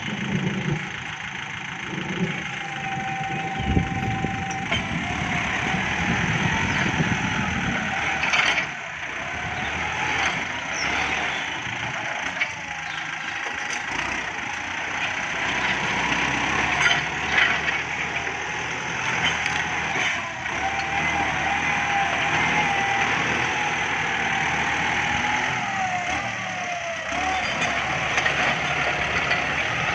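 Kubota MU5702 tractor's diesel engine running steadily under load, its pitch wavering slightly, while the rear implement is worked into ground too hard to let it sink in.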